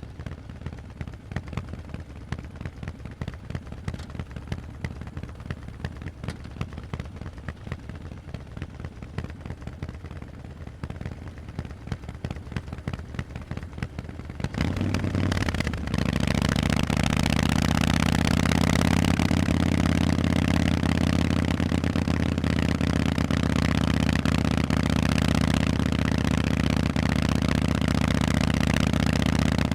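Harley-Davidson Forty-Eight's air-cooled Sportster V-twin through Vance & Hines exhausts, first with an uneven, pulsing exhaust beat at low revs. About halfway through the throttle opens and the engine runs loud and steady at higher revs.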